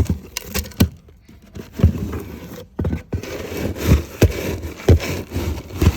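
Irregular knocks and scraping, about eight or nine sharp hits over a rough rustling noise.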